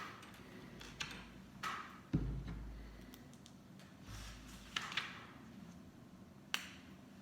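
Lego bricks being handled and pressed together: scattered small plastic clicks and taps, with a couple of soft low thumps about two and four seconds in.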